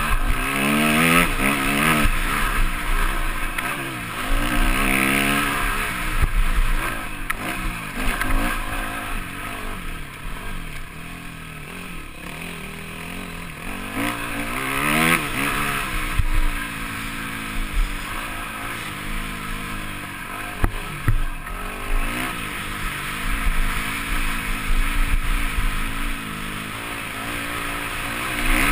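Yamaha motocross bike's engine heard from the onboard camera, revving up and down as it is ridden round the track. There are several sharp climbs in revs, the strongest about halfway through, and a quieter stretch of low revs before it.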